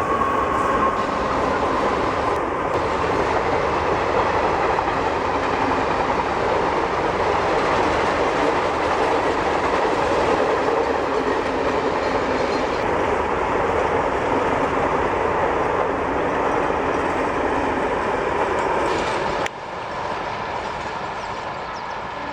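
Express train passing at high speed: a loud, steady rush of carriage wheels on the rails with clickety-clack over the joints. The noise drops suddenly near the end.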